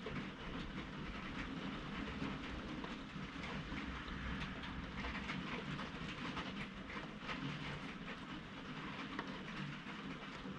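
Rain during a thunderstorm, many small drop ticks scattered over a steady low rumble.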